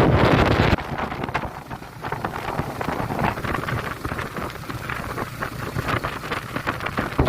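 Wind buffeting the microphone of a rider on the move: a loud rumble that drops suddenly to a quieter, crackly rush just under a second in.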